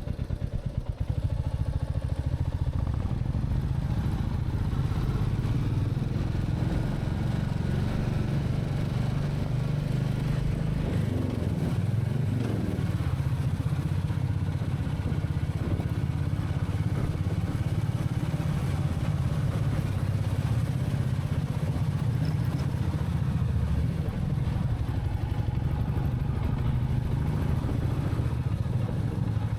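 Royal Enfield Meteor 350's single-cylinder engine running steadily at low revs as the motorcycle rides slowly along. About twelve seconds in, its pitch briefly rises and falls.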